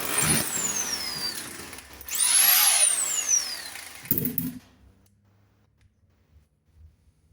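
Electric drill: its motor whine falls away at the start as the trigger is let go, then spins up again about two seconds in and winds down over a second and a half. A short knock follows just after four seconds, then near silence.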